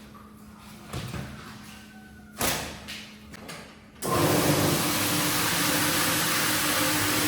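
A few light knocks and thuds of handling on the rug. Then, about four seconds in, a cleaning machine starts suddenly and runs on with a steady, loud hiss and a low hum.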